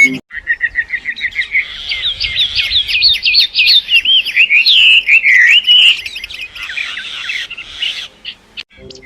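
A songbird singing with no music under it: a run of quick repeated chirps, then a varied warbling song of rising and falling notes, fading out near the end.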